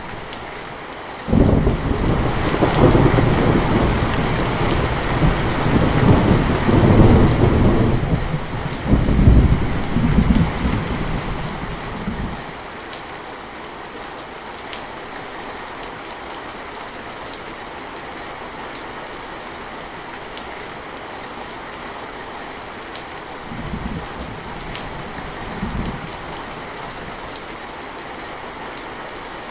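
Steady rain falling, with a long roll of thunder that breaks in about a second in, rumbles and swells for about ten seconds, then dies away. Two shorter low rumbles of thunder come near the end.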